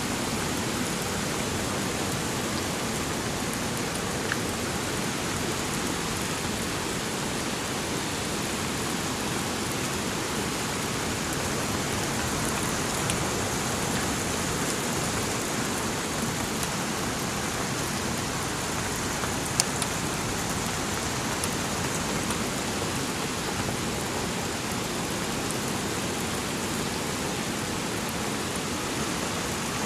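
Steady rain falling, with a few sharp drip ticks standing out over it.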